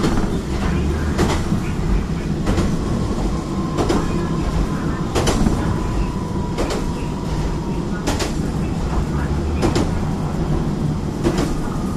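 Kanto Railway diesel railcar running at speed, heard from inside the car: a steady low rumble of engine and wheels, with the wheels clacking over rail joints about every second and a half. A faint thin whine runs through the middle of the stretch.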